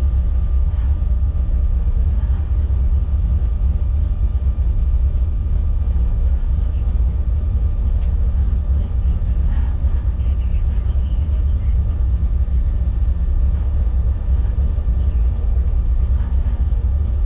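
BMW E30's M20B25 straight-six engine running steadily at idle or low revs, a low steady rumble heard from inside the cabin, with no revving.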